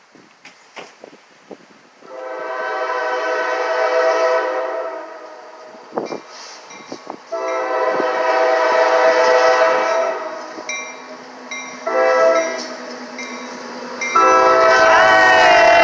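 Norfolk Southern freight locomotive's air horn sounding a series of blasts as the train approaches: two long blasts, shorter ones, then a final long, loudest blast whose pitch bends as the locomotive draws near, with the deep rumble of the train arriving under it. Wind gusts on the microphone before the horn starts.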